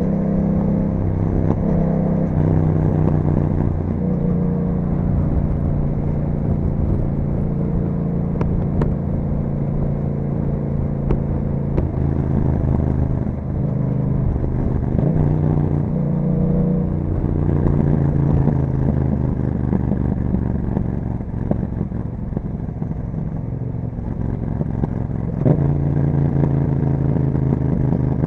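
Yamaha MT-07 parallel-twin engine running through an Akrapovic exhaust while being ridden. Its note rises and falls repeatedly with throttle and gear changes, with a sharp jump in pitch near the end.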